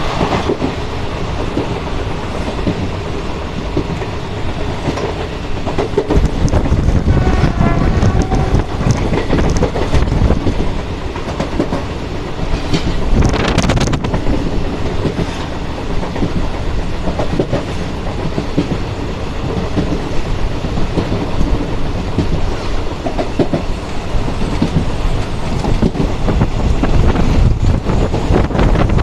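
Passenger train running along the track, a steady rumble with the wheels clattering over the rail joints.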